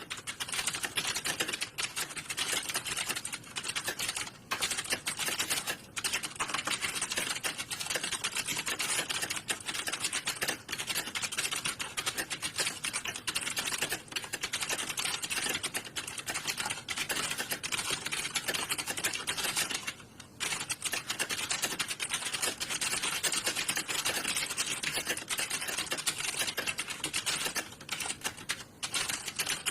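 Many computer keyboards being typed on at once, a dense, continuous clatter of key clicks with only brief lulls, as in a hall full of candidates taking a typing test.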